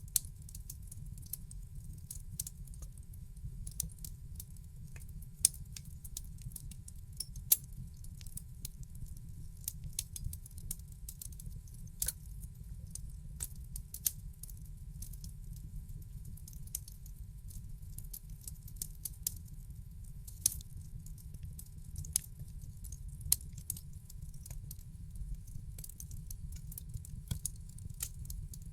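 Wood fire crackling in a fireplace: irregular sharp snaps and pops, a handful of them louder, over a steady low rumble.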